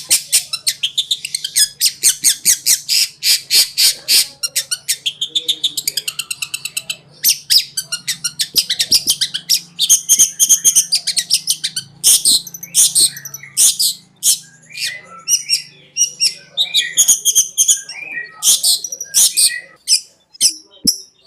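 Long-tailed shrike (cendet) singing its fast, jumbled 'konslet' song: rapid runs of short, sharp, repeated high notes with brief breaks between runs.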